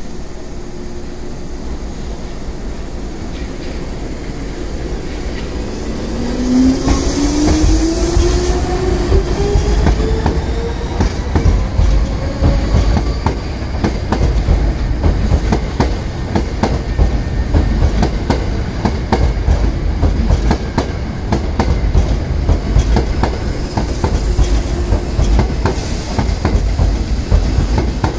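Ten-car Hankyu commuter train of 7000- and 6000-series cars pulling away: after a steady low rumble, a motor whine rises in pitch as it gathers speed, then the wheels clack steadily over rail joints and points as the cars roll past.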